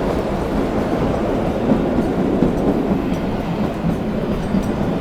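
Kalka–Shimla narrow-gauge train running along the line, heard from inside the coach as a steady rumble of wheels on rails with faint clicks.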